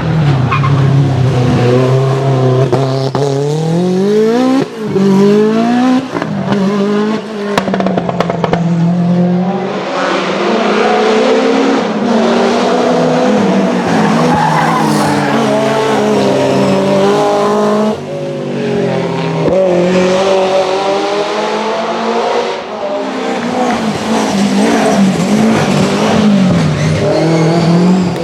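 Rally car engine revving hard, its pitch climbing again and again and dropping back at each gear change or lift of the throttle.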